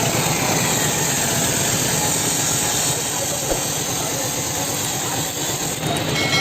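Powertrac 430 tractor's diesel engine running steadily, with a constant rushing hiss over it.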